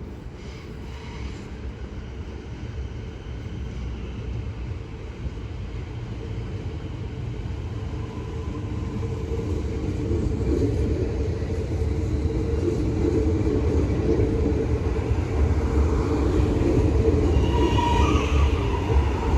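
A train approaching along the track, its rumble growing steadily louder, with a high squeal from the wheels near the end.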